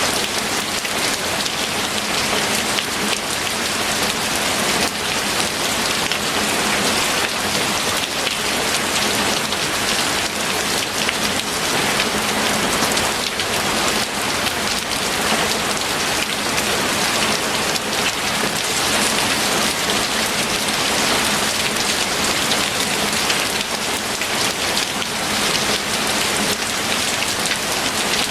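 Steady heavy rain falling on a surface, a dense even hiss made of countless fine drop patters.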